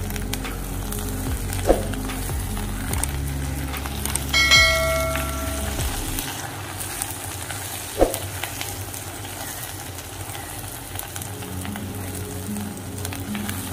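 Carrot halwa sizzling in ghee in a nonstick pan as a spoon stirs and scrapes it, in the final frying stage with the ghee separating out. Two sharp spoon knocks on the pan, and a bright chime rings about four and a half seconds in.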